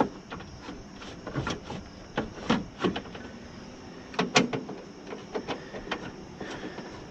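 Scattered metallic clicks and knocks from hands and tools working on the window track and regulator inside a car door, the loudest a quick double knock about four seconds in.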